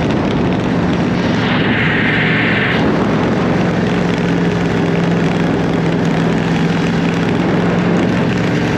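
Yamaha Ténéré 700 motorcycle riding at a steady speed, its parallel-twin engine running evenly under heavy wind rush on the camera. A brief hiss rises over it about one and a half seconds in and stops about a second later.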